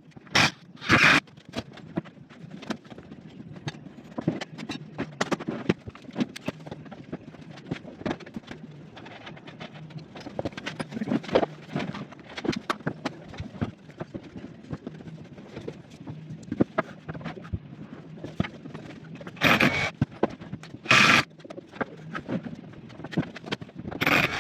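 Irregular knocks and clatter of timber studs being handled and fitted for a stud wall frame, with a few short, loud power-tool bursts, twice near the start and a few times near the end.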